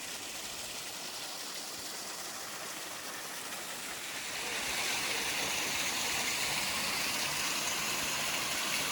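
A small stream of water rushing steadily. The sound grows louder about four to five seconds in and stays at that level.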